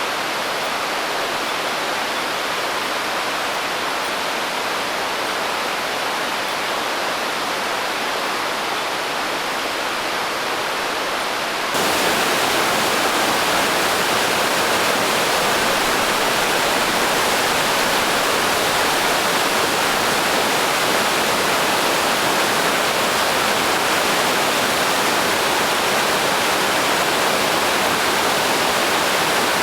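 Naena Falls, a large waterfall swollen with May snowmelt, pouring in a steady dense rush of water. About twelve seconds in it suddenly gets louder and fuller.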